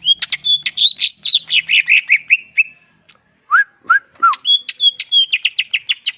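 Green leafbird (cucak ijo) singing a fast, varied song of sharp whistled notes. It opens with a rapid string of falling notes, then after a brief pause gives three lower slurred whistles, then another quick run of high notes.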